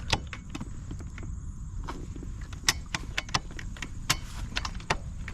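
Clicks and clunks of a Kawasaki KX100 dirt bike's foot gear shifter being worked through the gears, irregularly spaced, over a steady low rumble.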